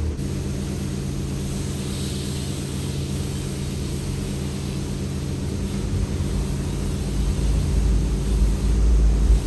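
Ford 7.3 L Powerstroke turbo-diesel V8 running steadily, with a deeper rumble building toward the end.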